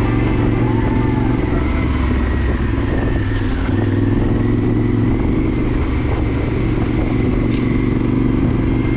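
Honda Varadero XL1000's V-twin engine running steadily as the motorcycle rides along, its note easing briefly about three seconds in.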